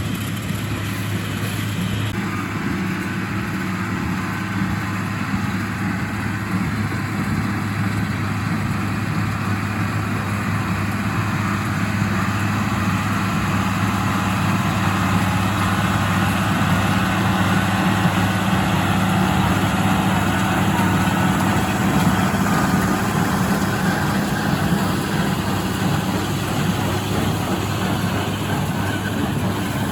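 International Harvester 886 tractor's six-cylinder diesel engine running steadily.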